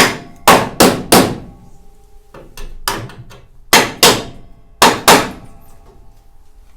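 Hammer tapping the steel inner A panel of a classic Mini, about ten sharp metallic strikes in quick pairs and threes over five seconds, the panel ringing briefly after each, to knock its lower edge out so the bolt holes line up.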